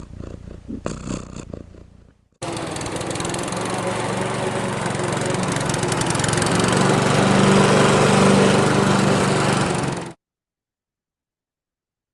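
Recording of a lawn mower engine running steadily. It starts abruptly about two seconds in, grows slowly louder, then cuts off suddenly near the end.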